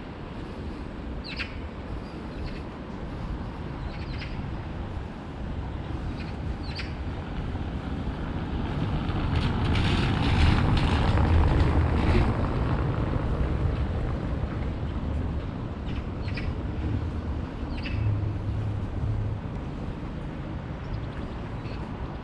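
A passing vehicle: a low rumble that swells to its loudest about ten seconds in and then fades away, with a few short bird chirps over it.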